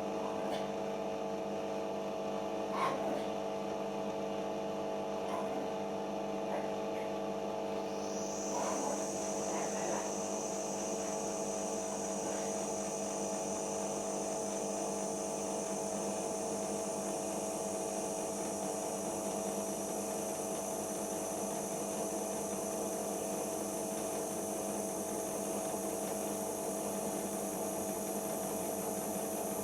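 Siemens iQ washing machine drum motor running steadily during its final spin, giving a hum made of several steady tones. About eight seconds in, a high-pitched whine rises and then holds at its new pitch, with a few faint knocks before it.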